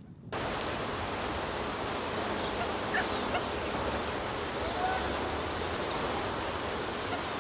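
A small bird calling with short, very high-pitched chirps, several in quick pairs, repeated about once a second over steady outdoor background noise.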